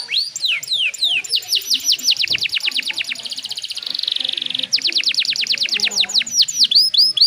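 Domestic canary singing: fast trills of whistled notes that each sweep downward. About halfway through it holds a steady buzzy roll for roughly a second, then breaks into quicker trills again.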